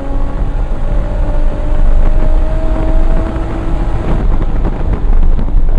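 Single-turbo 1994 Toyota Supra's inline-six pulling hard on track, its note rising steadily under acceleration. About four seconds in the engine note breaks off into a loud rush with scattered rattles and clicks.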